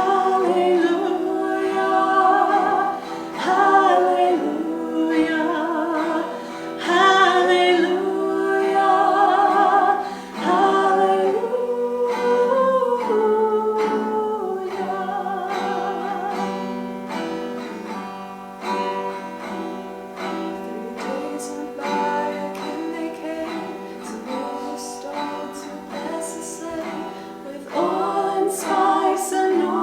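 Sung song with accompaniment: voices hold long notes with vibrato for the first ten seconds or so. An instrumental interlude of plucked, picked notes follows, and the singing comes back in near the end.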